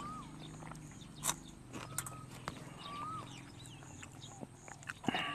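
Chewing with the mouth closed, with a few soft clicks, while a bird repeats short whistled notes about once a second over a low steady hum.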